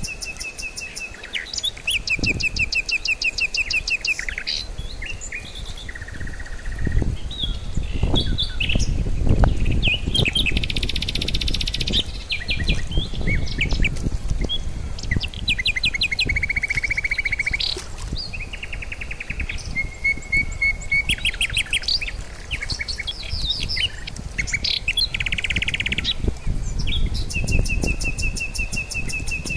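Songbirds singing: one rapid trill or string of chirps after another, in several different patterns, with a low rumble swelling up twice underneath.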